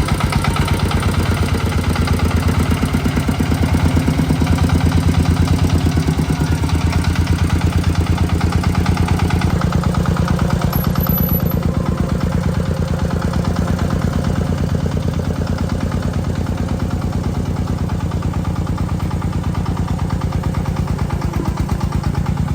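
Tractor engine running steadily with a fast, even chugging beat, dropping a little in level about halfway through.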